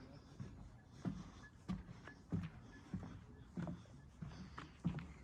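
Footsteps walking at a steady pace, a soft thud about every two-thirds of a second.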